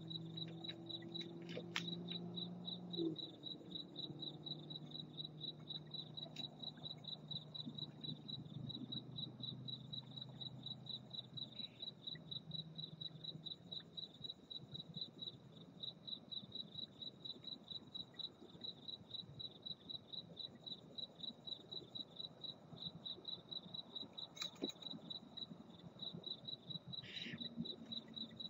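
A cricket chirping steadily at a high pitch, a few even chirps a second, with a low hum underneath that fades out about halfway through.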